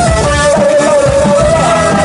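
Live band music: a song continues with a held, slightly wavering melody line over drums and bass, without sung words.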